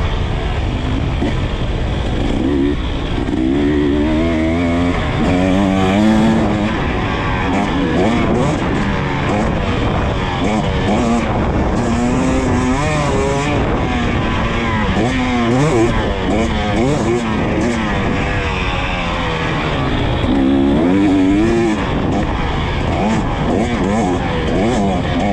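KTM EXC 300 TBI two-stroke dirt bike engine being ridden hard, its pitch rising and falling over and over as the throttle is opened and shut through the track's sections.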